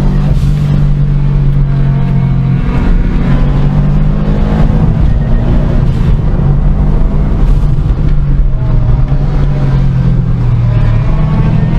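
Car engine running steadily under way, a loud continuous drone whose pitch eases slightly lower over the last few seconds.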